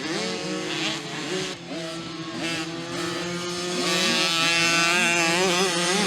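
Several 50cc mini motocross bikes racing, their engines revving up and down with overlapping, shifting notes, getting louder about four seconds in.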